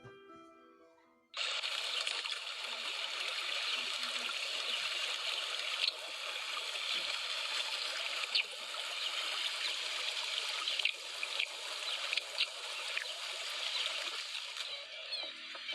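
Steady rush of running, trickling water that starts suddenly about a second in, with a few brief sharp high sounds over it.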